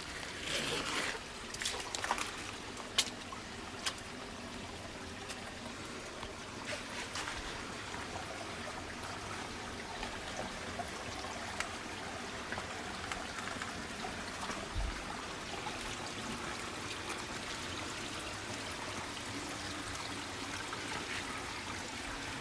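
Small stream of water trickling and running over rocks, a steady hiss, with a few sharp clicks in the first few seconds.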